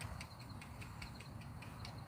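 Insect chirping: faint, short chirps repeating evenly about five times a second.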